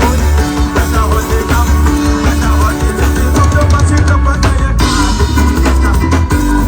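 A live band playing loudly through a PA during a sound check: drum kit, heavy bass and guitar, with no vocals clearly on top.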